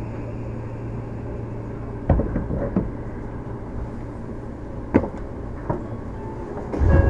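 Renewed Seibu 6000 series electric train running, heard from inside the car: a steady low rumble with a few sharp knocks, a little after two seconds in and twice around five seconds. The rumble grows louder near the end.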